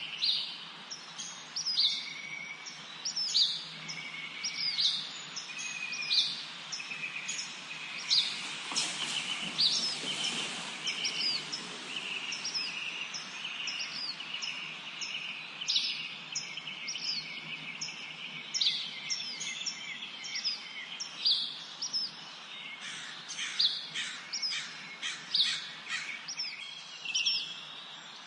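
Songbirds chirping and singing in a forest chorus: quick high chirps repeated over and over, with a steadier trill underneath through the middle. About nine seconds in there is a brief rush of noise.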